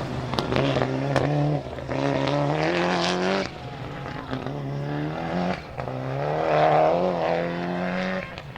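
Rally car engine under hard acceleration, its note holding and breaking again and again as it shifts through the gears, with sharp cracks between the shifts. It is loudest about seven seconds in, then falls away sharply near the end as the car passes.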